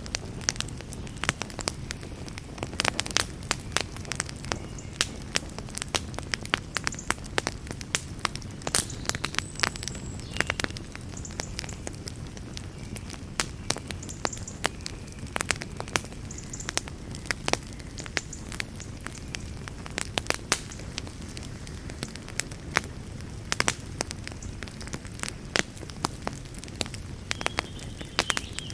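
Campfire crackling: irregular sharp snaps and pops from the burning wood, several a second, over a low steady rumble of the flames.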